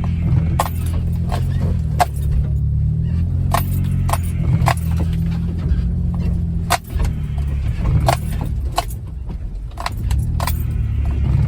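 A Jeep Wrangler heard from inside the cab, its engine a steady low drone as it crawls along a bumpy snow-covered trail. Irregular sharp clicks and rattles come from the cab and loose items as it goes over the bumps.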